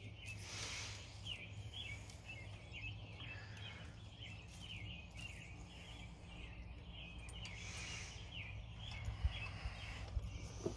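Faint bird chirping, a quick run of short repeated notes, over a low steady hum.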